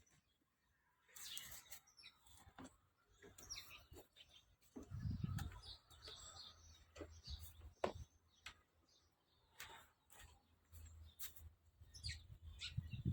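Faint chirping of small garden birds, with a low rumble about five seconds in.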